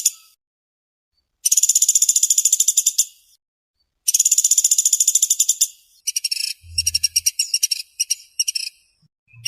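Woodpecker calling with fast, tightly spaced rattling trills: two long trills of about a second and a half each, then a choppier broken run of notes. A brief low hum sounds under the broken run.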